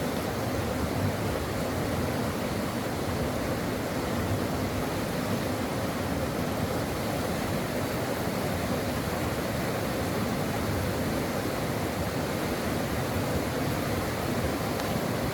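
Stream water flowing steadily, an even rushing babble with no breaks.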